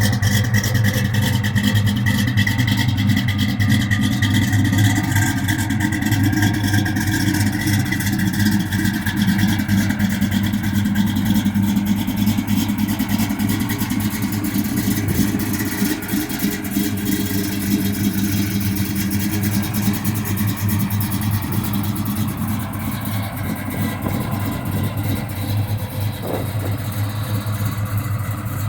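Built 350 small-block V8 of a 1969 Chevelle idling rough, a steady engine note that eases down slightly toward the end.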